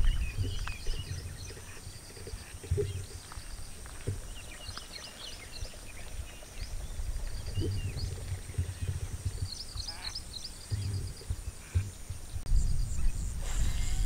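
Several birds chirping and whistling in short calls, over wind gusting on the microphone.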